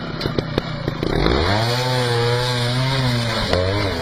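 Motorcycle engine revving: after a second of clattering knocks, the pitch climbs, holds high for about two seconds, then drops back.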